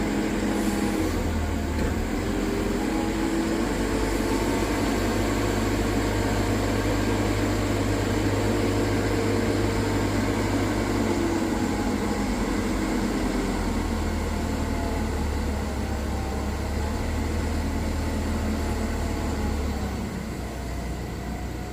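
Diesel engine of a Manitou MRT3570 rotating telehandler running steadily, its note shifting about a second in and again about halfway through, and dropping a little near the end.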